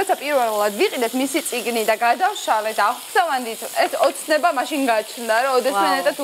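A woman talking over the sizzle of food frying in a pan.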